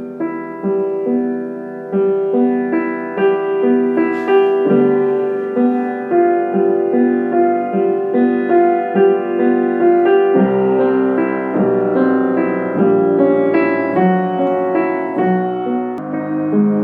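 Solo piano playing a flowing piece, one note after another without a break.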